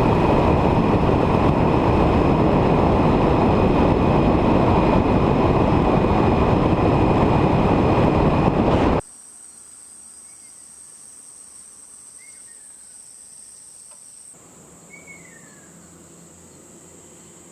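Loud, steady rushing noise that cuts off suddenly about nine seconds in. It gives way to insects trilling in one steady high-pitched tone, with a few short falling chirps.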